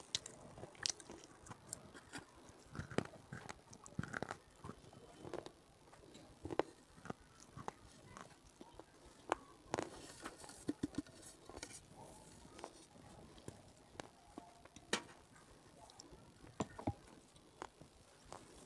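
Close-miked ASMR mouth sounds: a person biting and chewing something hard and brittle, with sharp crunches every second or two at irregular intervals and softer chewing between.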